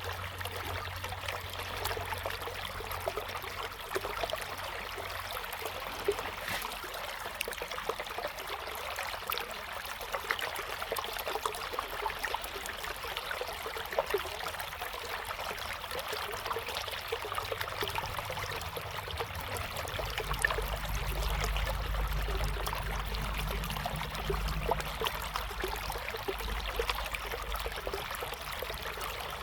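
River water flowing steadily, with a continuous babble and small splashes. A low rumble runs underneath for several seconds about twenty seconds in.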